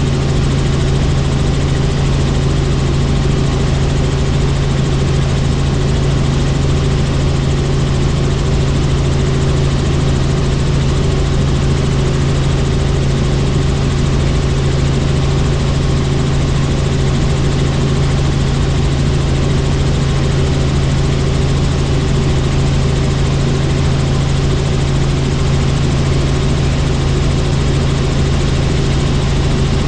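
Helicopter in flight: a steady, unchanging drone of the engine and rotor, with a strong low hum.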